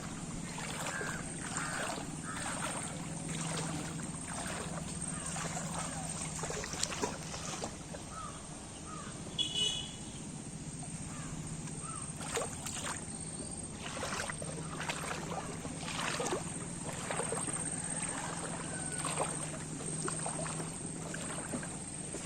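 Floodwater of the Subarnarekha river rushing, a steady wash of noise under a low steady hum, with short calls and splashy knocks scattered through.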